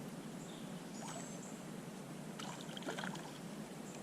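Faint water trickling and lapping around a canoe, with a few light knocks a little past halfway.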